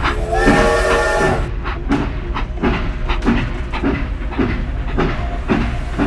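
Toy steam locomotive's electronic sound effect: a whistle lasting about a second, then steady chuffing about twice a second over a low running rumble.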